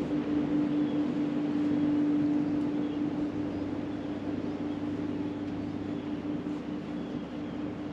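Steady drone of a running motor with a strong, even hum, slowly getting a little quieter.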